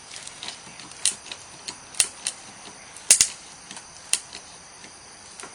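A house's framing crackling as a jack lifts its sagging front support beam: a handful of sharp, irregular cracks and pops roughly a second apart, the loudest a double crack about three seconds in.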